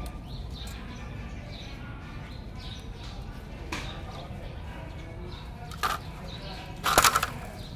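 Faint bird chirps over a steady outdoor background, broken by two short noisy bursts, the louder one about seven seconds in.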